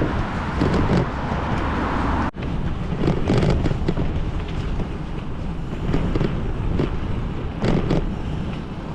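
Wind buffeting the microphone of a camera carried on a moving mountain bike, over road noise from the ride. The sound cuts out for an instant about two seconds in.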